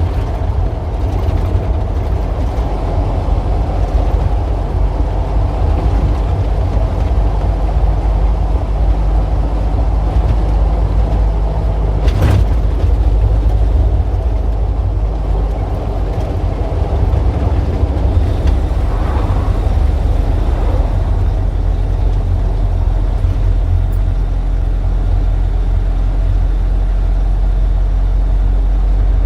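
Street traffic: a steady, heavy low engine rumble of passing vehicles, with a single sharp click about twelve seconds in.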